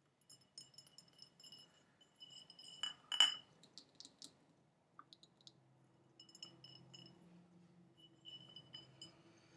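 Light, irregular tapping on a glass container. Each tap gives a short ringing clink at the same pitch, and the hardest taps come about three seconds in.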